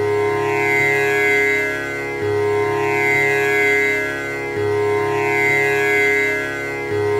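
Tanpura drone: its strings plucked in turn in a steady, even cycle that starts over about every two and a quarter seconds, the open strings ringing on between plucks with buzzing, shimmering overtones.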